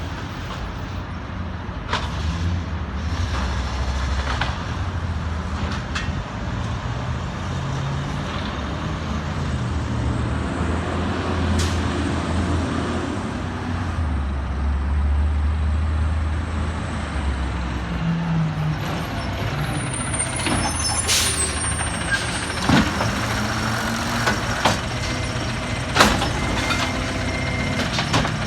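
Peterbilt 320 garbage truck's diesel engine running, its pitch rising and falling, with several sharp metal clanks and a burst of air-brake hiss and squeal about two-thirds through.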